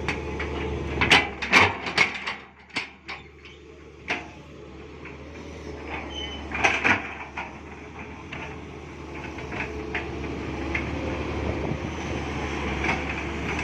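Excavator engine running steadily, with a run of sharp knocks and clatters in the first three seconds and more about six to seven seconds in.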